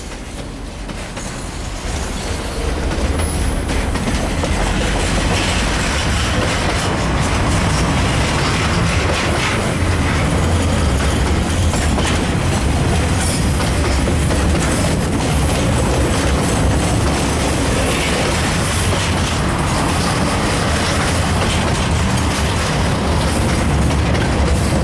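Freight train's container wagons rolling past close by: a steady rumble of steel wheels on rail with scattered clicks, swelling over the first few seconds and then holding level.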